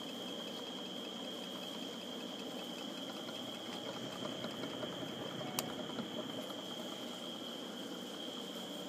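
Antique 32-inch Emerson ceiling fan running steadily with a low whir, under a constant high-pitched tone, with one sharp click about five and a half seconds in.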